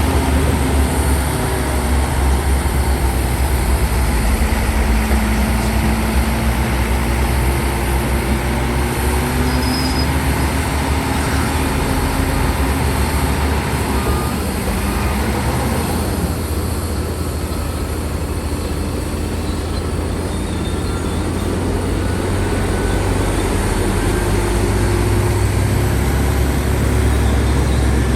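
Heavy diesel earthmoving machinery running under load, a deep steady engine drone with a rough mechanical clatter and a few wavering whines. It eases a little around the middle and builds again near the end.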